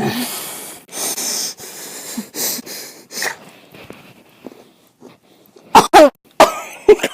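A person coughing: breathy huffs in the first few seconds, then two loud, sharp coughs close together about six seconds in, followed by a few shorter ones.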